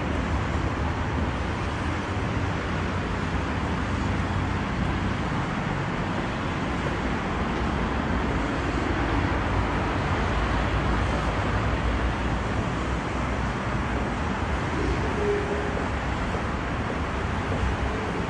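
Steady low rumbling background noise with a hiss over it, unbroken and even in level, like road traffic heard from outside.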